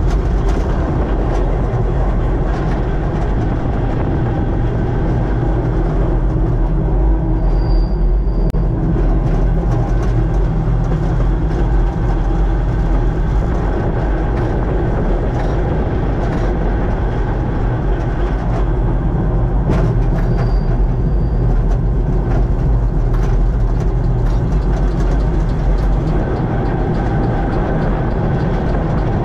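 Kurobe Gorge Railway narrow-gauge electric trolley train running steadily along the track, heard from the locomotive cab: a continuous low rumble with scattered clicks and knocks from the wheels on the rails.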